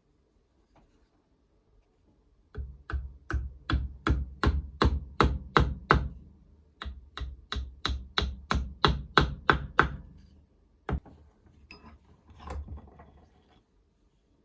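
Hammer blows struck in two steady runs of about three a second, with a short pause between them, then a single knock and a few softer, scattered knocks near the end.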